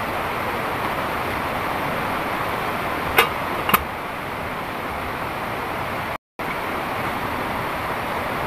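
Heavy rain falling steadily, an even rushing hiss, with two short sharp ticks about half a second apart a little after three seconds in. The sound cuts out for a moment past the six-second mark.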